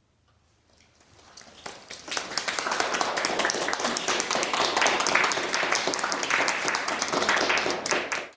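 Audience applauding: the clapping swells over the first couple of seconds, holds steady and loud, then cuts off abruptly near the end.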